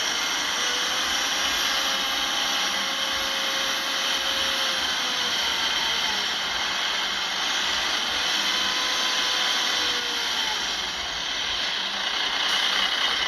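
Heavy earthmoving machinery running: a steady engine noise with faint tones that slowly rise and fall in pitch as the load changes, under a dense high hiss.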